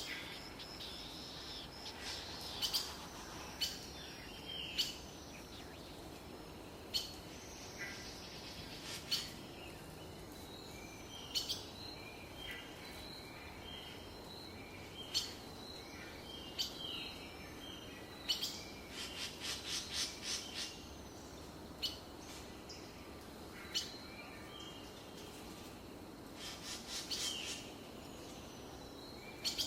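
Birds chirping: short high calls and a few falling whistles come at intervals throughout, with a quick run of repeated notes about two-thirds of the way in, over a steady faint background hiss.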